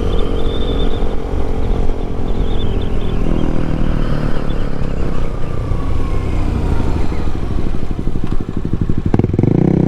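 Yamaha MT-07 parallel-twin engine, heard from the rider's seat, dropping in pitch as the bike slows, pulsing at low revs, then getting louder as the throttle opens again near the end.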